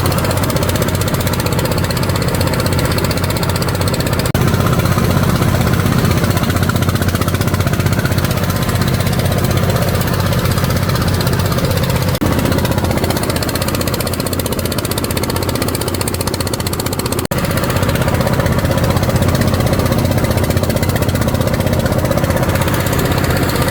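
A small engine running steadily at a constant speed, with a continuous drone.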